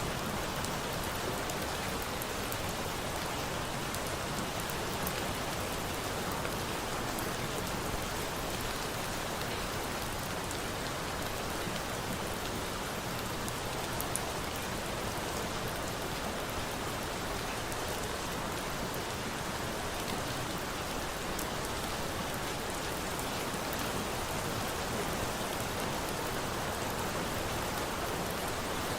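Steady rain falling: an even, unbroken hiss with a few faint sharp ticks here and there.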